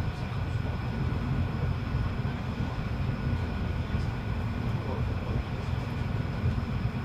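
Steady low rumble of a Pesa 620M diesel railcar running, its engine and machinery humming evenly.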